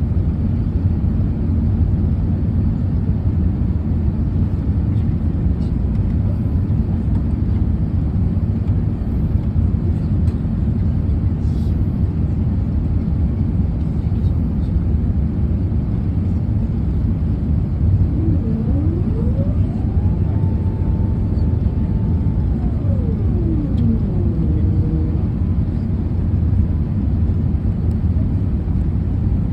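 Steady low rumble of a moving vehicle. About two-thirds of the way through, a faint tone rises, holds for about two seconds and falls away.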